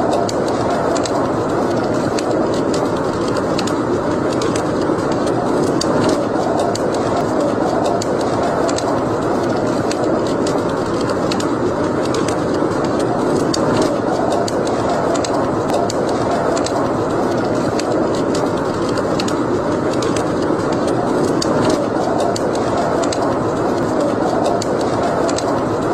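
Wood fire burning in a fireplace: a steady rush of flames with frequent, irregular sharp crackles and pops.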